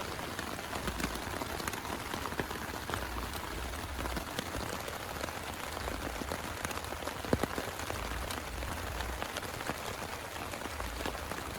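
Heavy rain falling steadily, with scattered individual drops ticking through it and one louder drop hit about seven seconds in.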